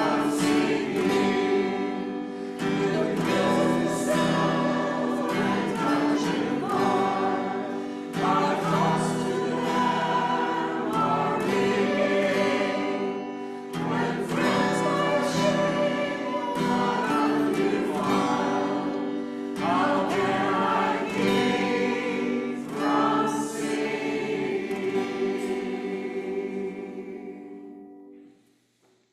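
A choir singing a hymn together in sustained phrases with short breaks between them; the last chord dies away near the end.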